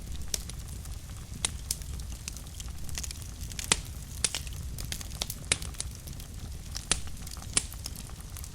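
Fire burning in a fireplace, crackling: sharp, irregular pops about once a second over a steady low rumble of the flames, the loudest pop a little before the middle.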